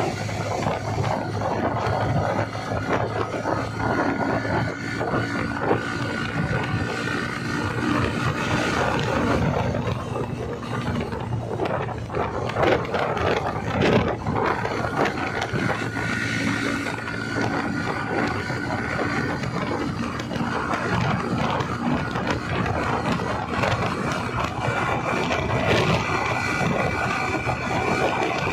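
Motorcycle running on the move, with heavy wind noise buffeting the microphone.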